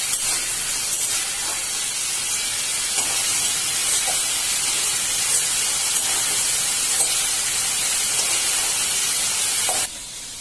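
Prawns sizzling in a little oil in a steel wok, a steady hiss with a few light spatula taps as the lightly fried prawns are lifted out. The sizzle cuts off suddenly near the end.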